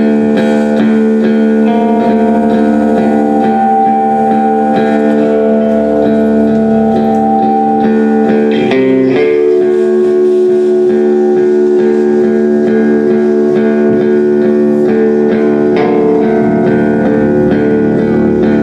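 Loud live guitar music: dense chords held and sustained, shifting to a new chord about nine seconds in.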